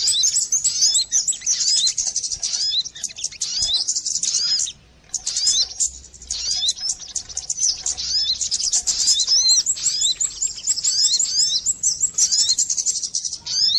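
Bird-lure recording of sogon bird calls: rapid high chirps in dense, overlapping runs, with a brief lull about five seconds in.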